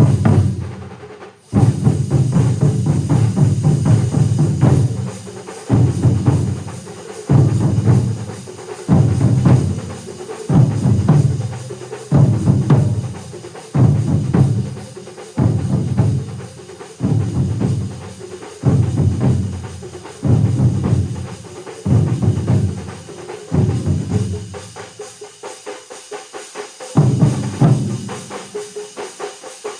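A large ensemble of drummers playing together in heavy, surging swells that repeat about every second and a half. There is a brief break about a second and a half in, and a softer stretch a little before the end before the full beat comes back.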